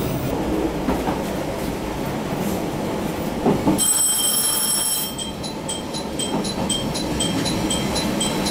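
Train running on the Watarase Keikoku Line, a steady rumble of wheels on rail. About four seconds in, a high squeal is held for about a second. Then a high ringing repeats about twice a second.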